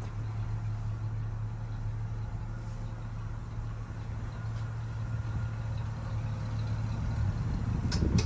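1976 Chevrolet Blazer's engine idling steadily, with a few sharp clicks near the end.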